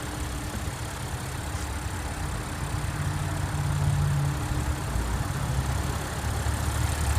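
2015 Audi Q7's supercharged 3.0-litre V6 TFSI engine idling steadily, its low hum swelling slightly a little past the middle.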